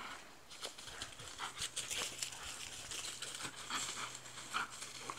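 Irregular rustling and crinkling from dogs moving about, made up of many short scuffs and crackles.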